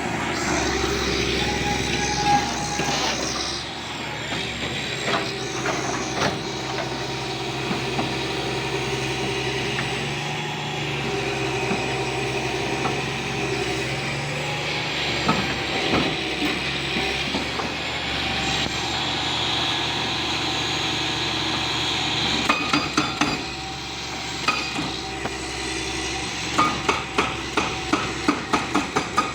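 Heavy demolition machine's engine running steadily, with scattered knocks and clanks. Near the end comes a rapid series of hammering blows, several a second.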